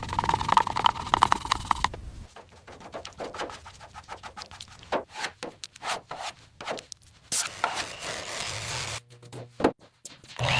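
A string of short workshop sounds: scraping, rubbing, clicks and taps, opening with about two seconds of a rapidly pulsing buzz.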